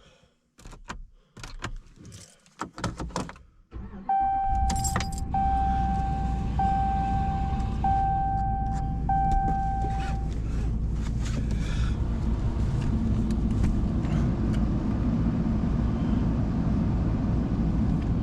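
Keys jangling and clicking, then the pickup truck's engine starts about four seconds in and settles into a steady idle. A dashboard warning chime sounds five times in a row just after the start.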